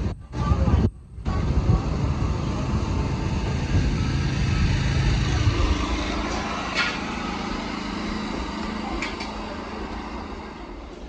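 Passenger train running along the track, heard from on board: a steady rumble with a few faint clicks, slowly growing quieter. It opens with a second or so of choppy, stop-start sound.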